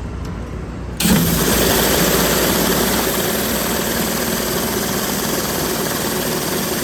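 Pressure washer's engine running steadily, then about a second in the spray opens and a loud, steady hiss of high-pressure water on the pavement takes over.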